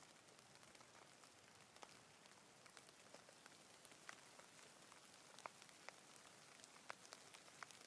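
Faint, steady rain: a soft even hiss with many scattered, distinct drop ticks.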